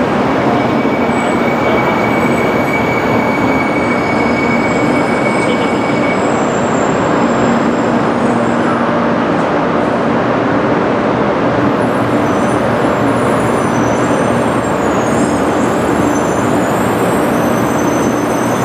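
300 Series Shinkansen train rolling slowly along the platform as it arrives, a steady loud rumble with a thin high whine held through the first six seconds or so.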